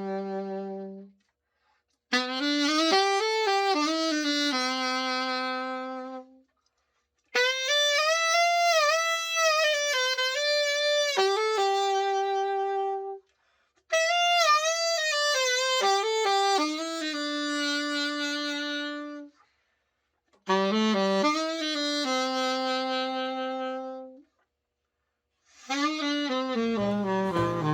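Selmer Super Action 80 Series II alto saxophone played alone in about five short melodic phrases, each ending on a held note, with brief pauses between. This is the play test after a full overhaul. Near the end, other music with lower notes comes in.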